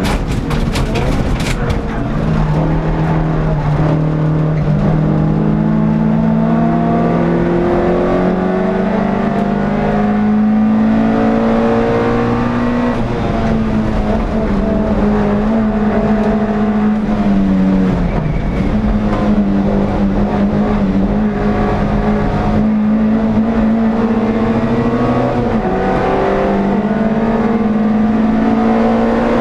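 Onboard sound of an air-cooled NSU TT four-cylinder race engine pulling hard. The revs climb slowly for several seconds at a time and drop back sharply a few times, at gear changes or lifts. A short rattle of clicks comes in the first second or so.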